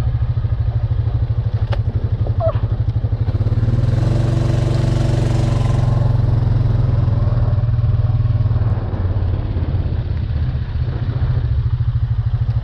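ATV engine running under way, revving up for a couple of seconds about four seconds in, then settling back to a steady lower pace.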